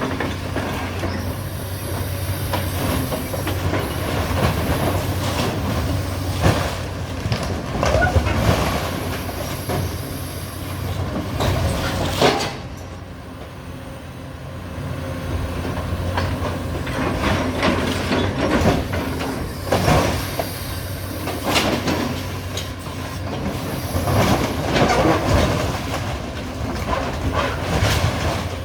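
Hydraulic demolition excavator's diesel engine running steadily under load, with repeated crashes, crunches and clattering of building debris as the structure is torn down. The impacts stop for a couple of seconds a little under halfway, then start again.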